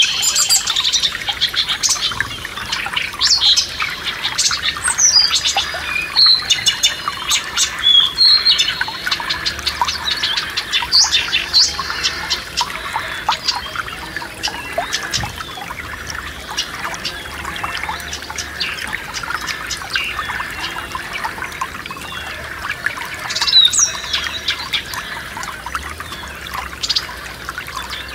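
Several songbirds chirping and whistling over the steady rush of a forest stream. The birdsong is busiest in the first dozen seconds and picks up again near the end.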